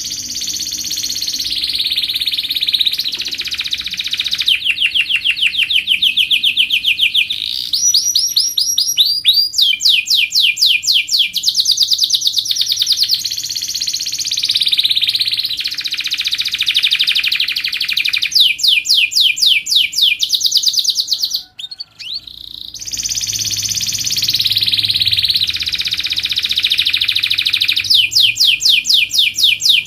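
Domestic canary singing a long, continuous high song of fast trills and rolls, changing from one phrase to the next every second or two. The song breaks off briefly about two-thirds of the way through.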